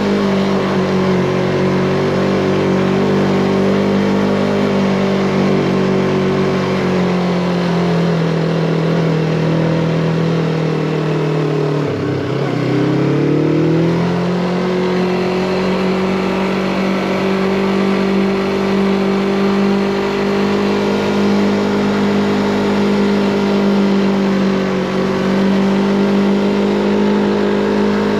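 Yamaha MT-25 motorcycle's parallel-twin engine running under way at a steady pitch. Near the middle its pitch sags, drops sharply, then climbs back up to a steady drone.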